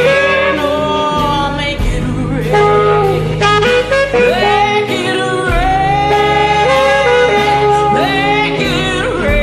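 Saxophone playing a melodic blues solo with bends and vibrato over a backing band with sustained bass notes.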